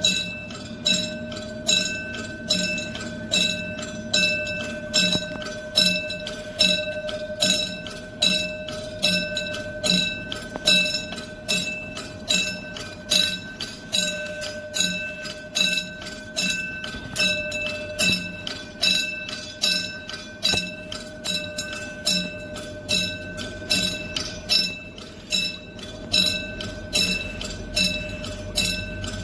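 Railway level-crossing warning bell ringing: evenly repeated strikes, a little more than one a second, over a steady tone. It is the alarm that a train is approaching the crossing.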